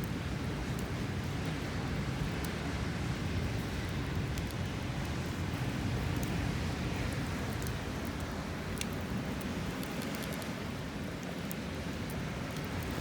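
Steady seaside wind, buffeting the microphone, and waves washing in, with scattered small crackles from the wood campfire.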